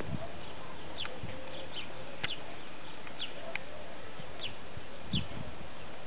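Birds chirping in the background: short, high, falling chirps that repeat every second or so over a steady outdoor hiss.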